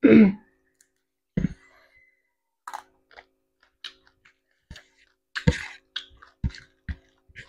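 Close-up mouth sounds of someone chewing deep-fried fish with rice: irregular wet clicks and lip smacks, the loudest one right at the start.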